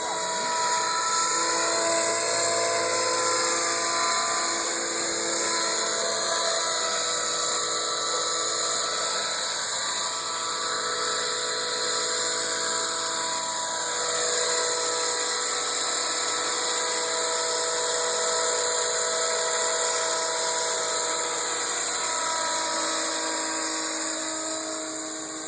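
Radio-controlled scale model AS350B helicopter in flight, its motor and rotors giving a steady high-pitched whine. The pitch drifts slowly up and down as it flies.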